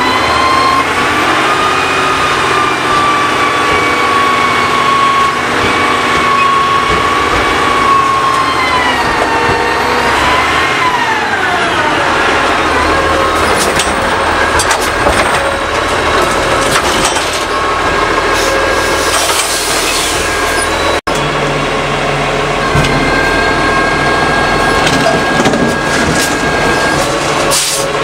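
Curbtender garbage truck working its packer: the hydraulic pump and engine give a steady whine that slides down in pitch about ten seconds in, over cracking and crunching as trash is compacted.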